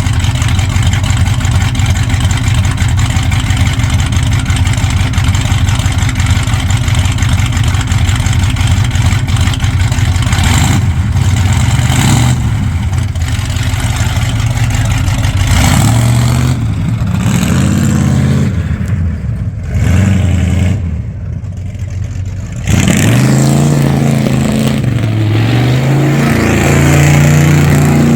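Ford F-250 pickup being driven, engine and road noise steady at first. Later the engine pitch rises and falls, eases off briefly, then comes back up abruptly as it accelerates again.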